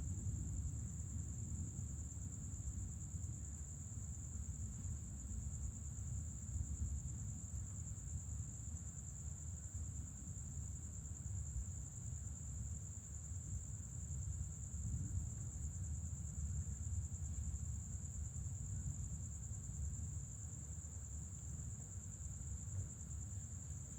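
Night insects trilling steadily at one high pitch, over a low rumble that rises and falls.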